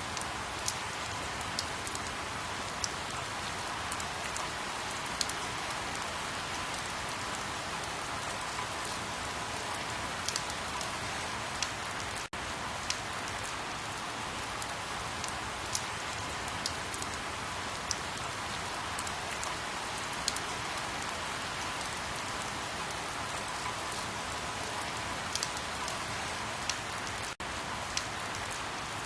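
Steady rain falling, an even hiss with scattered sharp drop ticks. It cuts out for an instant twice, about 12 and 27 seconds in.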